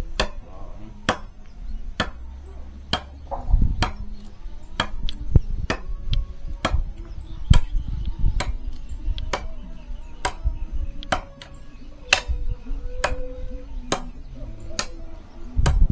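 Firewood being chopped by hand with sharp, regular blows, about three every two seconds.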